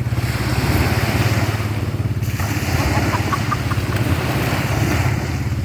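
7.5 hp high-speed gasoline pumpboat engine running steadily at speed, a rapid even low drone under a rushing hiss.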